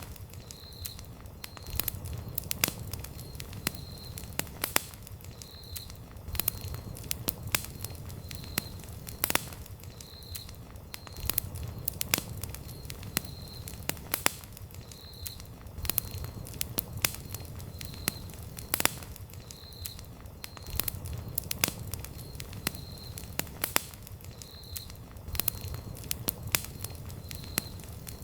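Wood campfire burning, with irregular sharp crackles and pops over a low, steady rumble of the flames.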